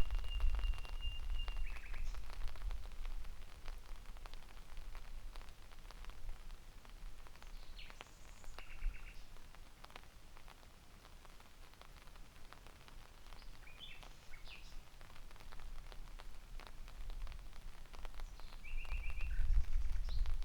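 Common nightingale singing in the rain: a long held whistle at the start, then short, fast trilled phrases separated by pauses of several seconds. Scattered raindrop ticks and a low rumble run underneath.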